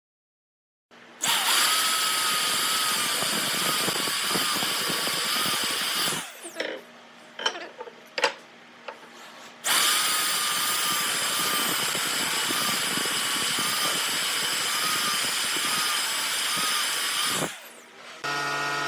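An electric power tool working wood in two long runs of about five and eight seconds, each with a steady motor whine. In the pause between them come a few light knocks.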